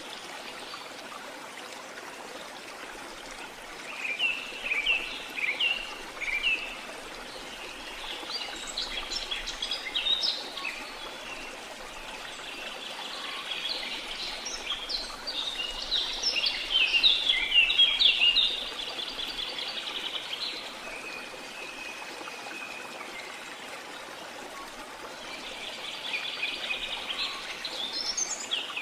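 Steady rushing of a waterfall, with songbirds chirping over it in several separate bursts of song.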